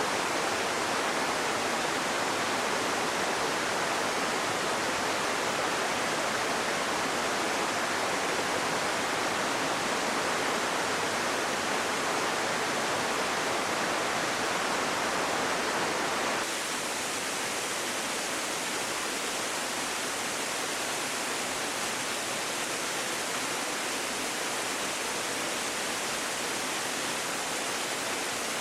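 Mountain stream rushing over rocks, a steady rush of water. About halfway through it changes abruptly to a slightly quieter, hissier rush.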